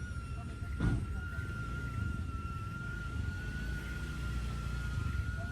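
Small DJI Neo quadcopter's propellers whining at a steady, slightly wavering pitch, over low wind rumble buffeting the microphone in strong wind. There is a brief thump about a second in.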